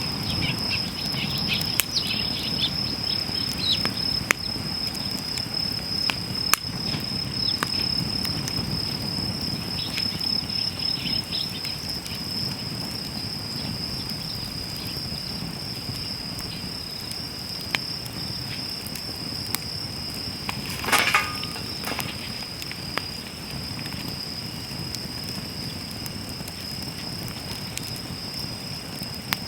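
Wood campfire crackling with scattered sharp pops, one louder crackle a little past two-thirds through. A steady high insect trill carries on behind it.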